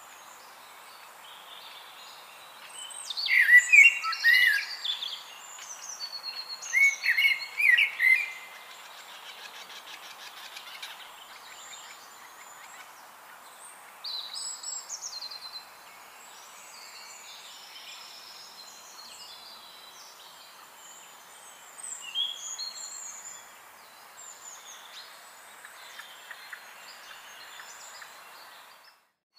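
Several songbirds singing and calling over a steady outdoor hiss, with the loudest warbling phrases about three and seven seconds in. The sound breaks off briefly near the end.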